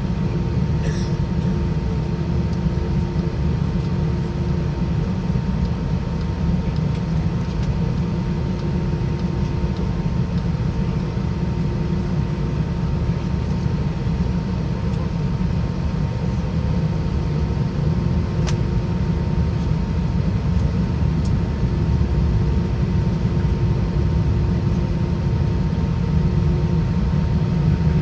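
Steady cabin noise of an Airbus A320 with IAE V2533-A5 turbofan engines running: a constant low roar with faint steady hums above it.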